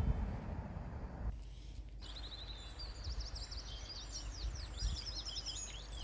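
Birds chirping in quick, twittering sweeps, starting about two and a half seconds in, over a steady low rumble.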